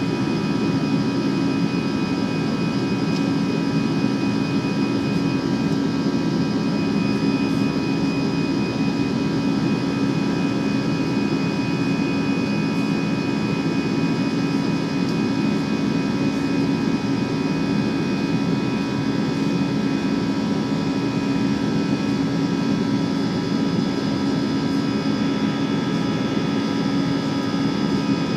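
Airbus A320 cabin noise heard from a forward window seat: steady jet engine and airflow rumble with a few faint constant whining tones above it, unchanging throughout.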